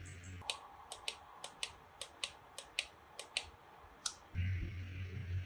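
Buttons on a compact space heater's control panel being pressed over and over to set its wake-up timer to 8 hours: a dozen or so sharp, uneven clicks over about four seconds, over a low hum.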